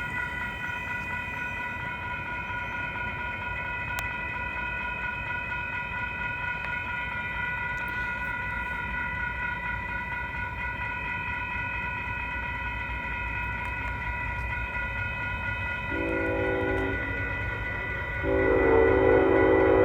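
Railroad crossing warning bell ringing steadily as a Union Pacific freight train approaches, its rumble growing. Near the end the lead locomotive sounds its horn: a short blast, then a longer, louder one.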